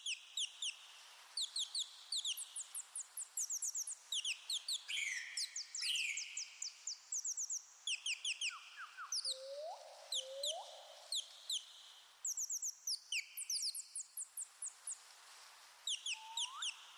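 Several birds singing: quick runs of short, high chirps repeated over and over, with a few lower rising whistled calls about halfway through and again near the end, over a faint steady hiss.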